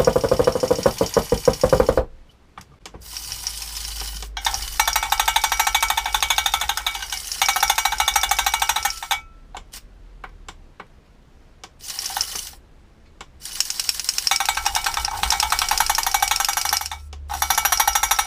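Servo-driven breaker attachment on a Huina 1580 all-metal RC excavator hammering, a fast metallic rattling chatter. It comes in several runs of a few seconds each with short pauses between them.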